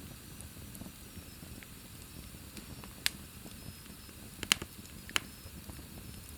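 Wood fire in a fireplace crackling over a low steady rumble, with three sharp pops in the second half.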